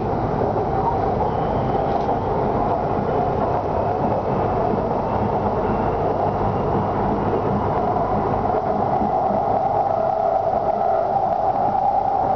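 BTS Skytrain car running along the elevated line, heard from inside the car: continuous running noise with a steady whine that grows louder about two-thirds of the way through.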